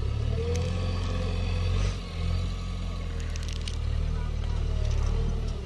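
Heavy diesel earthmoving machinery running with a steady low drone, with a few short knocks and scrapes of digging or loading mud.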